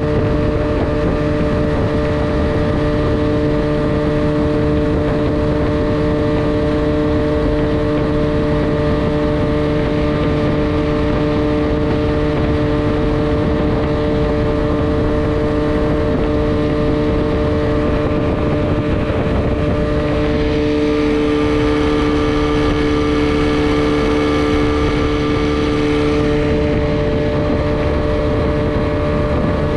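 Rebuilt Mercury 9.8 two-stroke outboard running at a steady speed, pushing a small aluminum jon boat along.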